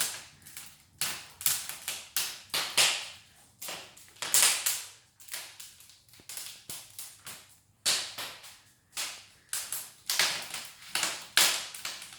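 Pine logs burning in an open brick fireplace, crackling and popping: sharp, irregular cracks, about two a second, each dying away quickly.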